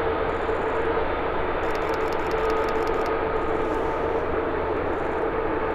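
Jet airliner engines running steadily: an even rush of noise with a steady whining note.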